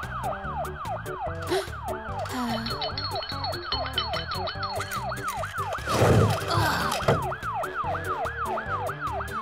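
Cartoon ambulance siren wailing in a fast, even up-and-down yelp, about three sweeps a second, over background music. A loud low rush of noise cuts in about six seconds in.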